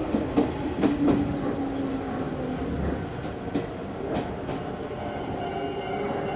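Izu Hakone Railway Series 3000 electric train running, heard from inside the car: the wheels click over rail joints several times in the first four seconds over a steady low hum from the running gear, which drops slightly in pitch during the first second.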